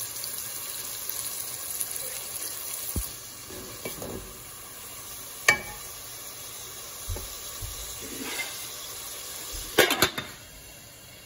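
Sliced onions, red peppers and curry leaves sizzling in oil in a metal pot while being stirred, the sizzle stronger in the first few seconds. A sharp metal knock about halfway, and near the end a metal lid clanks onto the pot, the loudest sounds.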